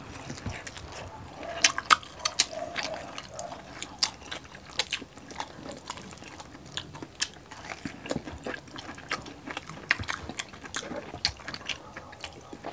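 Close-up eating of crispy pork belly: sharp, irregular crackling crunches as the crisp skin is bitten, between quieter chewing.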